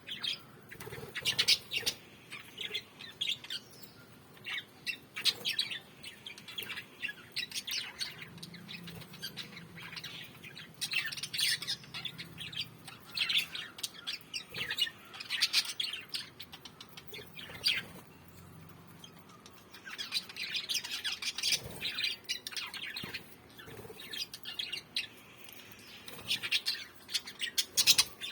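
Small pet parrots chirping in quick bursts of sharp, high chirps, with short lulls between the bursts.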